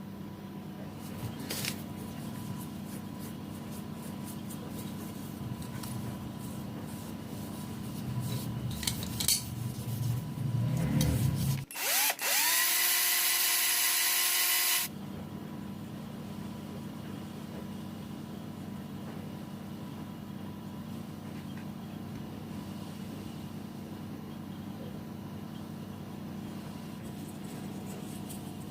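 A small power tool runs for about three seconds, starting about twelve seconds in, rising in pitch as it spins up and then holding steady. Before it come scattered clicks and rubbing of handled metal parts, over a steady low hum.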